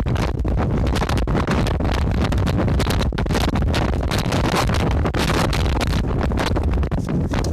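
Strong wind buffeting the microphone: a heavy, steady rumble with a few brief dips.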